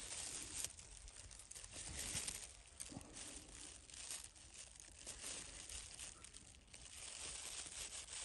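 Soft, irregular crackling and rustling of close handling as pine resin is picked from a pine tree's bark.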